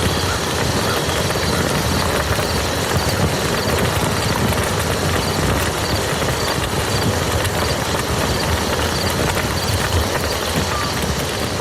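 Steady heavy rain falling on a muddy field, a dense, even patter of drops. Faint high ticks repeat about twice a second through it.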